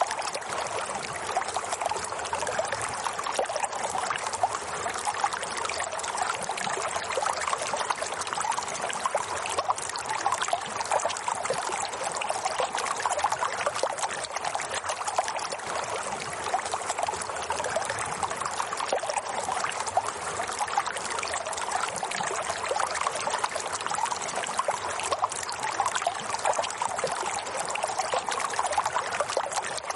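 Water flowing and trickling steadily, the continuous bubbling splash of a small stream.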